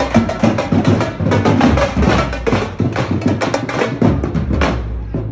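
High school marching band playing, driven by a drumline's rapid, steady drum strokes over the band's pitched instruments.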